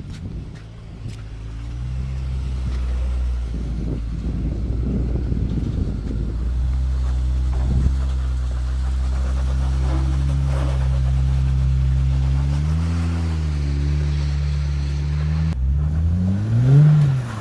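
An off-road Jeep's engine pulling steadily at low revs as it works up a wet rock obstacle. It blips briefly about two-thirds of the way through, then revs up sharply near the end and falls back.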